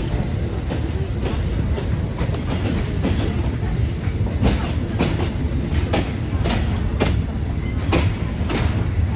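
Passenger train running along the track, heard from a carriage window: a steady low rumble with wheels clacking over rail joints. The clacks get sharper about halfway through, at about two a second.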